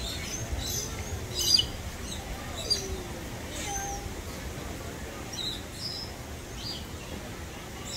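Small birds chirping in short, high, scattered calls, the loudest about one and a half seconds in.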